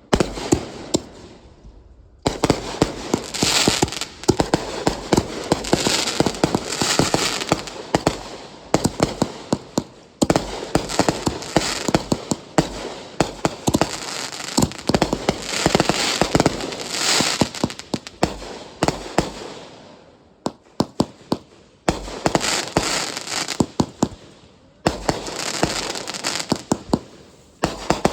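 Consumer fireworks going off in long volleys of rapid, dense cracks and bangs, with a few brief lulls between barrages.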